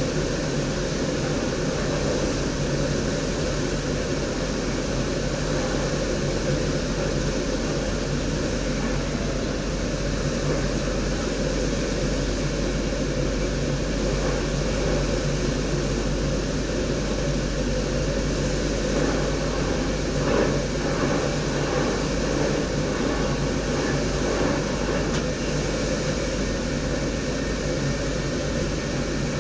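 Steady running noise inside the driver's cab of an NS DDZ double-deck electric train moving along the line, a low rumble with even hiss, and a short clatter about twenty seconds in.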